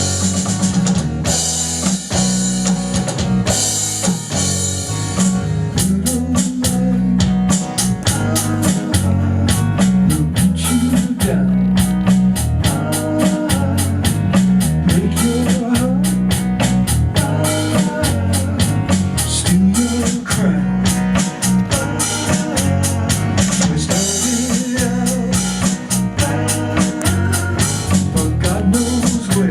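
Band playing an instrumental groove: drum kit and guitar over a steady beat. Cymbals wash in the first few seconds, then give way to a tight, even ticking on the drums.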